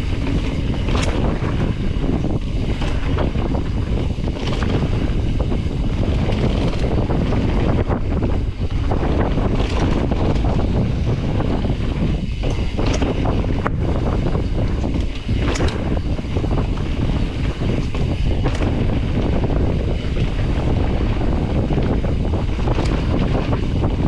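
Wind buffeting the microphone and the dirt rumble of a Specialized Stumpjumper EVO Comp mountain bike descending a flow trail at speed. Scattered sharp clicks and knocks come from the bike over bumps.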